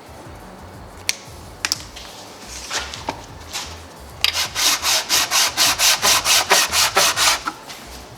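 Warped thermostat housing's mating face being sanded flat by hand, rubbed back and forth in quick even strokes, about four a second, after a few clicks and short scrapes. The strokes are truing the face where a weld has left it out of flat.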